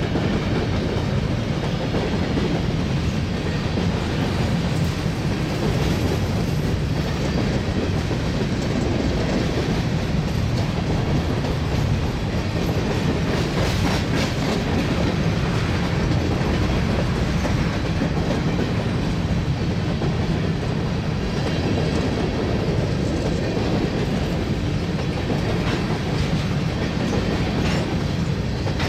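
Empty covered hopper cars of a BNSF grain train rolling past, steel wheels clickety-clacking over the rail joints with a steady low rumble.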